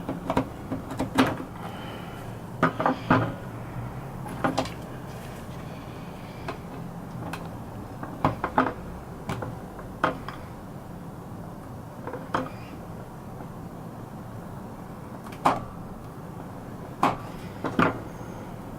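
Irregular sharp clicks and light knocks, about a dozen spread unevenly, from hand tools and drill parts being handled during the brush repair. A steady low hum sits underneath.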